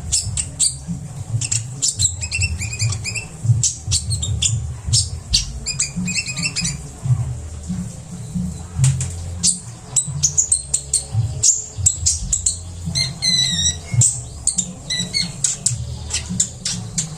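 A kolibri ninja sunbird singing a fast, dense song of sharp chirps, clicks and quick up-and-down trills, the busy 'gacor' song full of mimicked notes, over a steady low hum.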